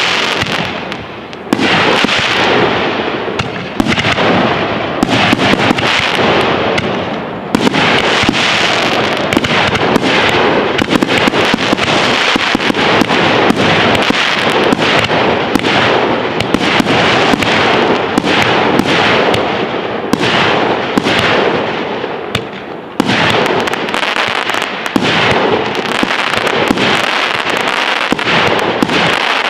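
Fireworks display: a dense, continuous barrage of bangs and crackling with hardly a pause. Fresh loud volleys break in after brief lulls about a second and a half in, about seven seconds in, and near the three-quarter mark.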